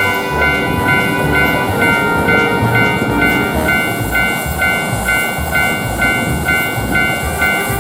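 Japanese railroad crossing alarm bell ringing in an even repeating pattern, about two dings a second, over the steady rumbling noise of a passing train.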